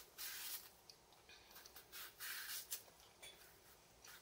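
Faint scraping of a knife blade peeling the green skin off a matooke (East African cooking banana), in a few short strokes.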